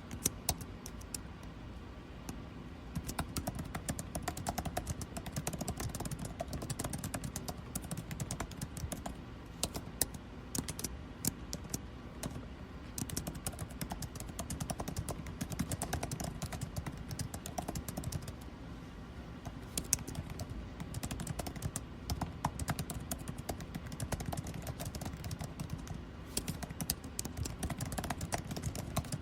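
Typing on a computer keyboard, quick irregular key clicks with short pauses, over the steady low hum of air conditioning.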